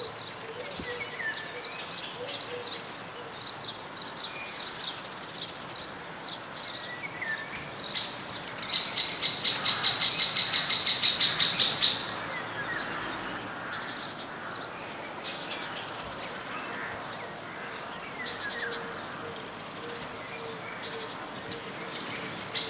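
Outdoor birdsong ambience: many short chirps and whistled slides over a light steady hiss. About nine seconds in, a loud rapid trill pulses at about eight beats a second for some three seconds before stopping.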